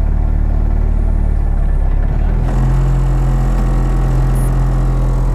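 Citroën rally car's engine heard from inside the cabin while the car stands at the stage start. It runs steadily at first; about halfway through the revs step up and hold at a higher, steady pitch.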